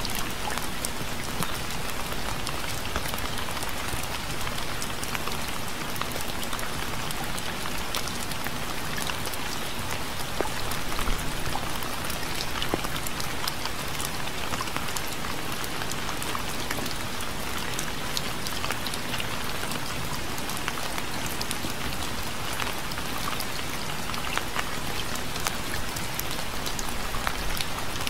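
Steady rain falling, with many separate drops pattering on a surface. There is no thunder.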